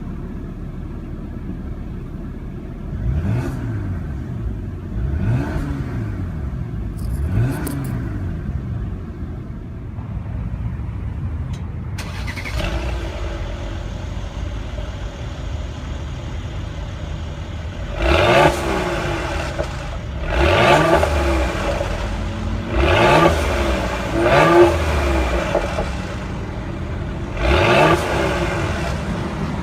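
The 2016 Mercedes-Benz GLE 450 AMG Coupe's 3-litre twin-turbo V6 idles in sport mode and is blipped: three light revs, then five sharper, louder revs in the second half, each rising and dropping back to idle.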